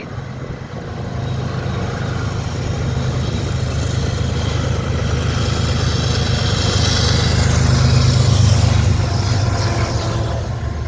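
Diesel locomotives of a CN freight train approaching and passing, their engines running with a steady low hum that grows louder to a peak about eight seconds in, joined by a rising hiss of wheels on rail.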